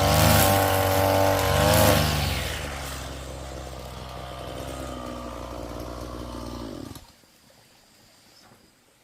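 A small engine running loudly with a wavering pitch, easing down after about two seconds to a steady lower running sound, then stopping suddenly about seven seconds in.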